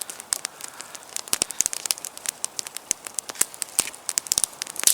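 Small campfire of damp wood crackling, with irregular sharp pops and snaps over a faint hiss.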